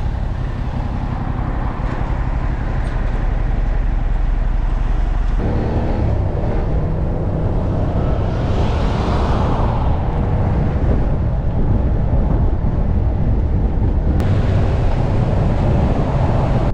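Motorcycle running on the road, a steady engine rumble under heavy road and wind noise, with a faint engine tone showing from about five seconds in.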